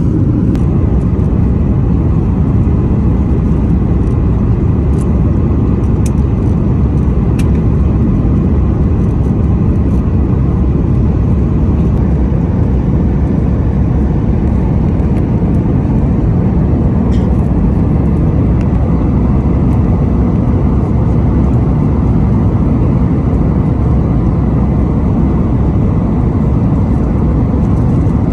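Boeing 737 MAX 8 jet engines and airflow heard from inside the cabin, a steady low rumble that holds level without rising or falling.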